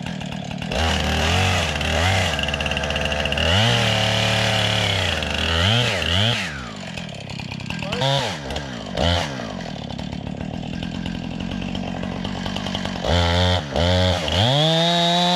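Husqvarna two-stroke chainsaw running at high revs, held for stretches and throttled down and back up several times, more quickly near the end, then cut off suddenly.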